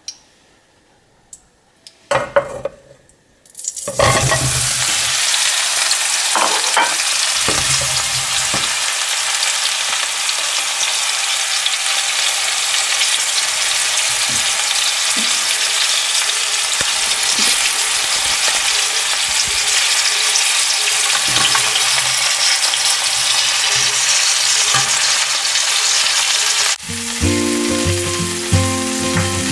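Hot olive oil in a saucepan bursting into a loud, steady sizzle about four seconds in as chopped courgette, potato, onion and green pepper go in to sauté, with a few low knocks from the pieces landing. Near the end the sizzle cuts off and background music starts.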